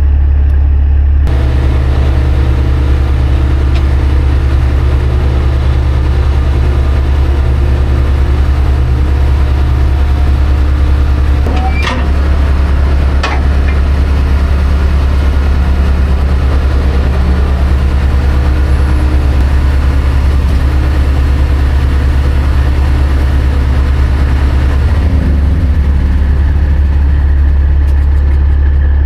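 Semi truck's diesel engine running steadily with a deep, even hum. About halfway through come two sharp clicks a second apart, and the engine note shifts slightly near the end.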